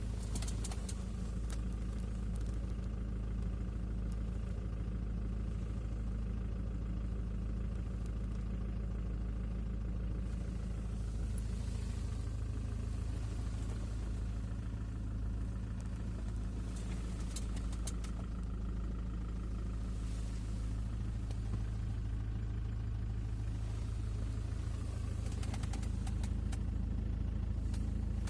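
2006 Ford Transit's 2.4-litre four-cylinder turbodiesel idling steadily at an even pitch, with a few faint clicks.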